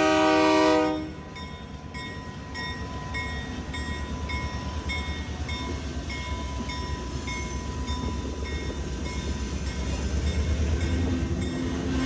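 Freight train horn sounding a chord that cuts off about a second in. Then a railroad crossing bell dings about twice a second over the low rumble of the approaching diesel locomotive, which grows louder toward the end.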